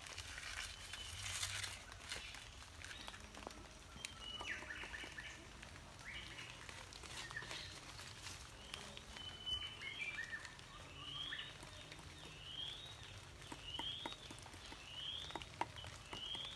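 A bird calling outdoors, repeating a short rising chirp about once a second through the second half, with other chirps a few seconds in. Scattered light knocks of a mason's trowel on concrete blocks and mortar sound underneath.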